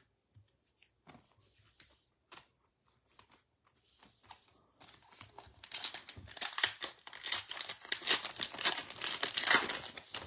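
Foil wrapper of a baseball card pack being torn open and crinkled, a dense loud crackle that starts about halfway through after a few faint taps.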